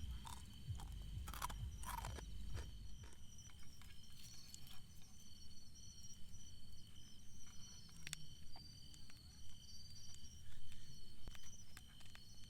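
Autumn insects, crickets, singing steadily in several high chirring tones, with a few sharp clicks and knocks, a cluster of them in the first few seconds and more near the end, over a low outdoor rumble.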